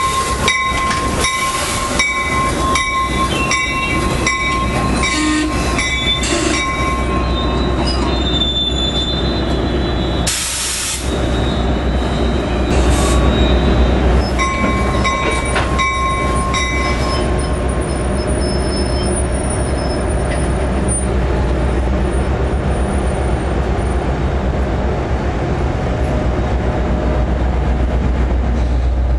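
A commuter train passing close by with a steady low rumble. For the first several seconds its wheels click rapidly over the rail joints under a high wheel squeal; the squeal stops, comes back briefly around the middle, and the rumble carries on to the end.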